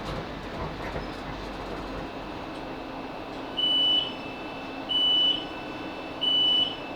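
Inside a Class 458 electric multiple unit as it draws to a stop: low running noise with a steady hum, then three identical short high-pitched beeps about a second and a quarter apart, the door-release warning as the train stops at the platform.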